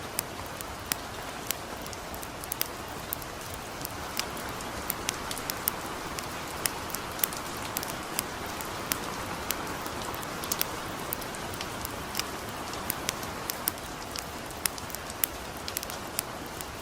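Light, steady rain mixed with a campfire crackling: sharp, irregular pops several times a second over the even hiss of the rain.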